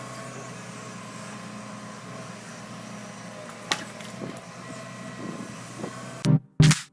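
Steady mechanical hum, engine-like, with one sharp click a little after halfway. Electronic music with a heavy beat cuts in near the end.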